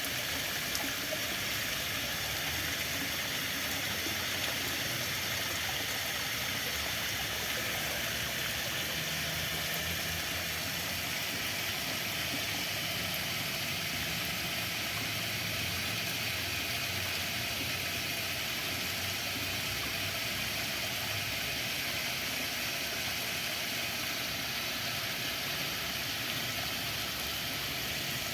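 Water rushing steadily, an even continuous flow with no breaks.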